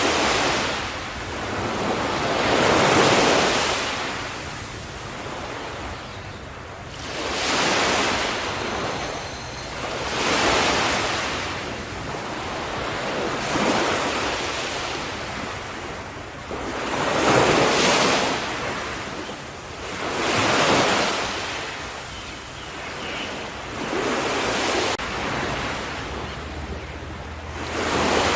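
Ocean waves breaking and washing onto a shore, one surge every two to four seconds, each rising and falling away, with a low rush of wind between them.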